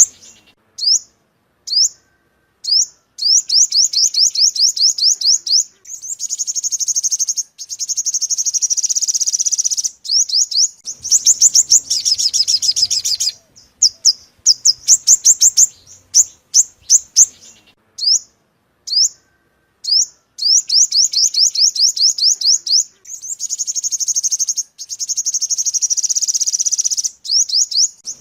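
Sunbird song played as a lure call: sharp high chips, first spaced out and then speeding into fast trills of high notes lasting a few seconds, with short gaps between phrases. The same sequence comes round again about halfway through, as a looped recording does.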